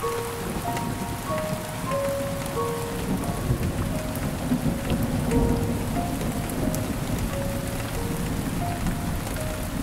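Steady heavy rain pattering, with a low rumble of thunder that swells in the middle. A soft, slow melody of single held notes plays over it.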